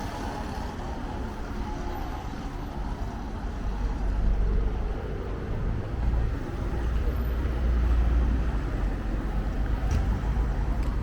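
Street traffic noise: a low rumble of motor vehicles going by, growing louder about a third of the way through.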